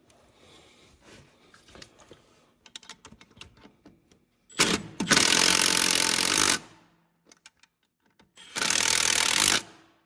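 Power impact wrench running in two bursts, about two seconds and then about one second, snugging bolts up, with light clicks and handling of parts before them.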